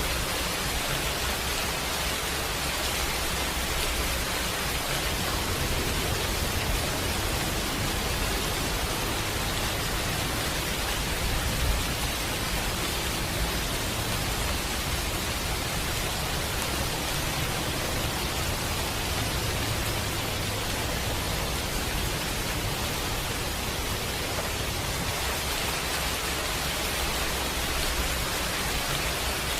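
Steady rain falling, an even hiss with no break, and a single louder pop about twelve seconds in.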